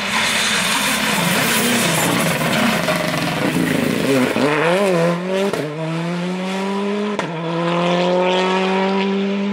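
Rally car at full throttle. A loud rush of engine and tyre noise comes first; about four seconds in the engine note wavers up and down. It then pulls hard through two quick upshifts, its pitch climbing after each.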